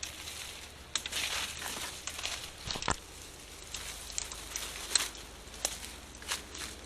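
Footsteps through dry leaf litter and undergrowth, with irregular crackles and snaps of leaves and twigs.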